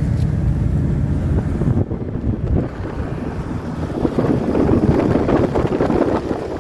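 VW T3 double-cab pickup driving, its engine running under wind noise on the microphone. The steady engine hum gives way about two seconds in to rougher rushing noise, which swells toward the end.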